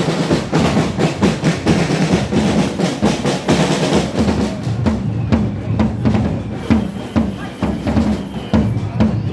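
A street drumming band playing a fast, driving rhythm on snare and bass drums, with rolls. About halfway through, the dense rattle of hits thins out to sparser beats.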